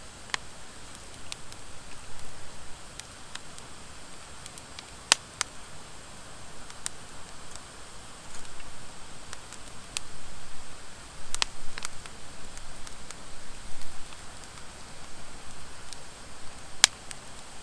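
Wood fire of driftwood and dry hardwood logs crackling over a soft hiss, with irregular sharp pops; the loudest come about five, eleven and seventeen seconds in.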